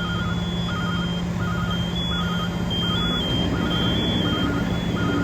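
Heavy truck engines running steadily, with electronic warning beeps repeating in short groups under a second apart and a higher alarm tone stepping up and down.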